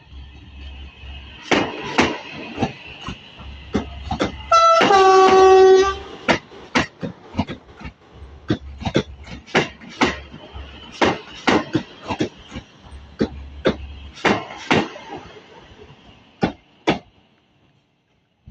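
Train running past with repeated clacking of wheels over the rail joints. About 5 s in, its horn sounds one blast of about a second and a half, preceded by a brief shorter note.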